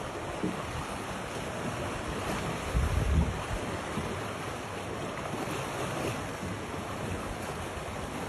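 Steady rushing outdoor wind noise, with low rumbles of wind buffeting the microphone that are strongest about three seconds in.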